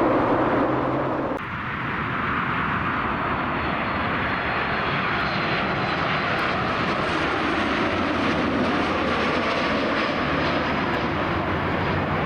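Jet airliner engines, a loud steady rush of noise that changes abruptly about a second and a half in and then carries on evenly.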